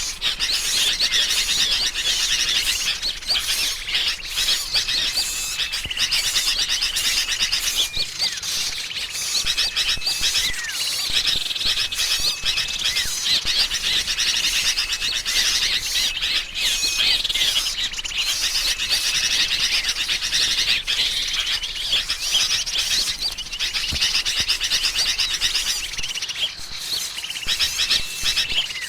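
Dense, unbroken chorus of agitated small-bird calls: noisy sooty-headed bulbul chatter mixed with prinias' and other small songbirds' chirps and twitters, a lure call for trapping birds. Short steady high whistles recur every few seconds through the chatter.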